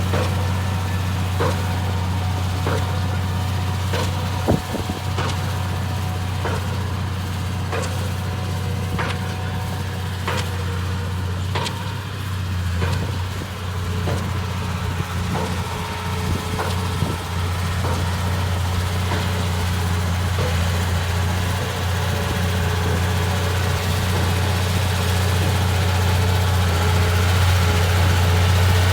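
Bulldozer's diesel engine idling with a steady low drone. Through the first half, sharp ticks come about every second and a quarter.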